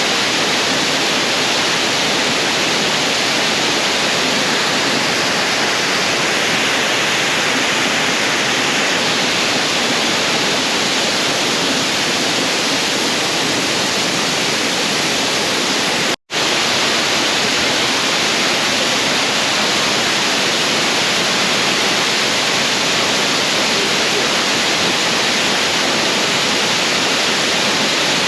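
Waterfall pouring: a loud, steady rush of falling water, broken by a split-second gap about sixteen seconds in.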